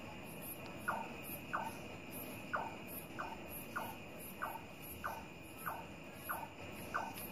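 Nightjar calling: a long run of short, sharp notes repeated every half second or so, over a steady high drone of night insects.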